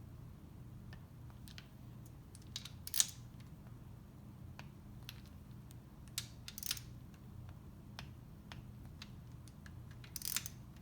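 Click-type torque wrench tightening the jet pump case bolts to about 7 foot-pounds: scattered small tool clicks, with three sharper clicks a few seconds apart as each bolt reaches torque, over a low steady hum.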